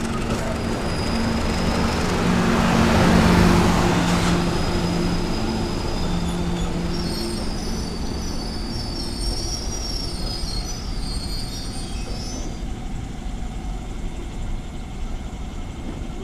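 A train passes close alongside the platform. Its rush of noise swells to a peak three to four seconds in, then slowly fades. A steady low hum is heard early on, and a thin high-pitched wheel squeal flickers through most of the pass.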